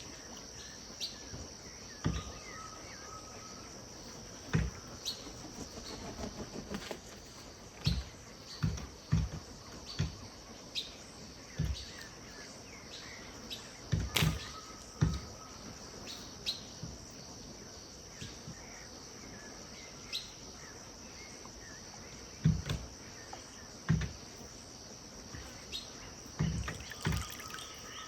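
Riverside ambience with a steady high insect drone and a few short, level bird whistles, broken by irregular dull low thumps, typical of river water lapping at the bank.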